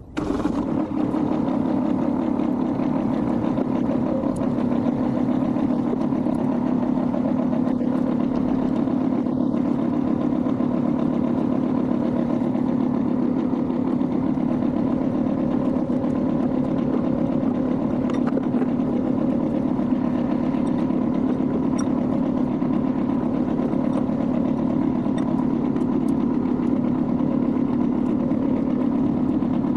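Kubota B21 compact tractor's diesel engine running steadily at a constant speed, starting abruptly.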